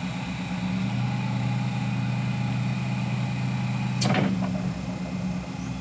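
Yale NR040 electric forklift running with a steady low electric motor hum, and one sharp metallic clank about four seconds in.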